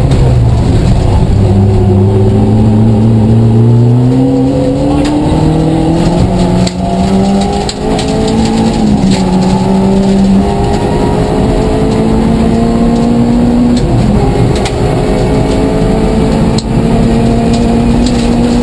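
Vauxhall Astra Mk2 rally car's 1400cc four-cylinder engine, heard from inside the cabin, pulling hard at full throttle. The pitch climbs steadily and drops at a few gear changes, with one change about four seconds in and another near fourteen seconds.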